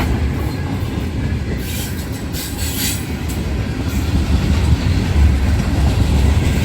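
Freight train cars rolling past on the rails: a steady low rumble of wheels on track, with a few brief sharp, high-pitched wheel sounds about two to three seconds in.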